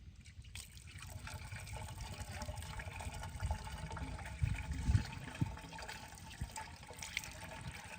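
Water rushing steadily, starting about half a second in, with a few low thumps around the middle.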